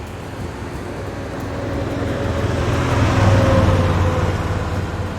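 Pickup truck driving past: engine and tyre noise builds to a peak about three seconds in, then fades as it goes by.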